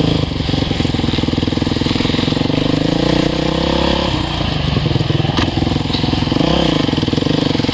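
Dirt bike engine running, its pitch rising a little and then dropping about four seconds in.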